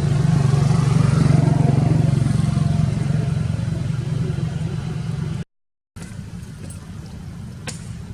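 A motor vehicle engine running steadily with a low hum. It cuts off abruptly about five seconds in, and after a brief gap a quieter hum follows with a few sharp clicks.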